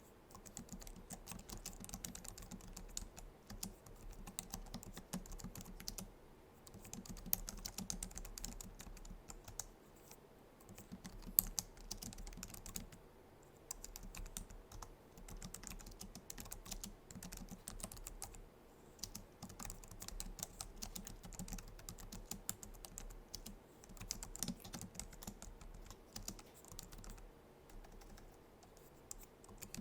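Typing on a Logitech MX Keys low-profile scissor-switch keyboard: rapid, soft key clicks in runs of several seconds with short pauses between, and one sharper louder tap about eleven seconds in.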